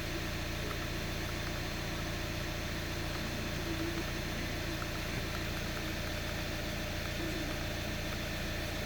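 Volkswagen Jetta's engine idling steadily, a low, even hum.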